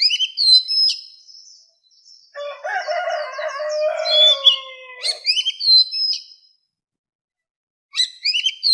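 Oriental magpie-robin singing in its wild-type song: short, loud, whistled phrases with quick rising and falling glides. In the middle comes a lower, drawn-out call lasting about two and a half seconds, and after a short pause the whistled phrases start again near the end.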